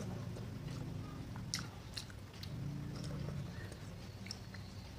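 Close-up mouth sounds of someone chewing and biting spoonfuls of seblak, with a few sharp clicks over a low steady hum.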